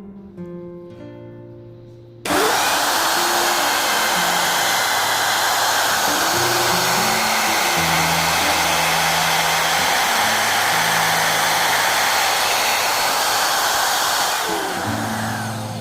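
A power tool's electric motor running steadily, starting suddenly about two seconds in and dying away near the end, over acoustic guitar music.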